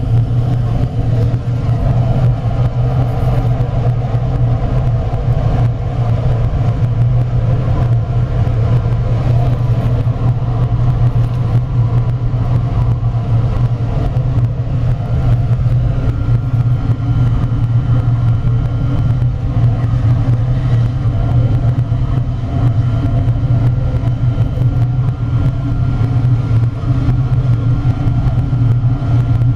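Biomass gasifier furnace running under test: a loud, steady low rumble with faint steady higher tones above it.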